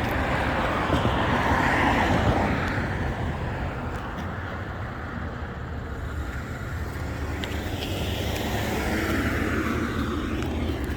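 Road traffic: vehicles passing on a nearby street, a steady rush that swells early on, eases off in the middle and builds again toward the end, over a low rumble.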